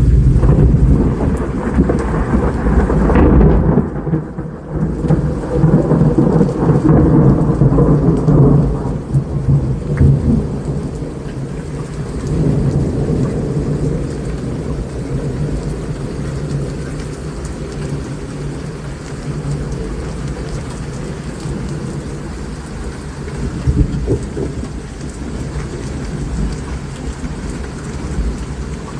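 Thunderstorm: rain falling steadily under a loud, low rolling peal of thunder that lasts about the first nine seconds and then dies away, with fainter rumbles later.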